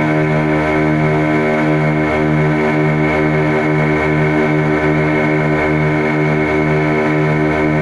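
A boat's motor running steadily at cruising speed, a constant-pitched drone with a slow regular throb.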